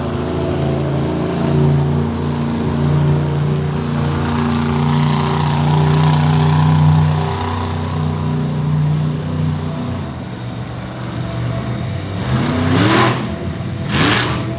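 Monster truck engine running steadily, then revved hard twice in quick succession near the end, the pitch rising sharply each time.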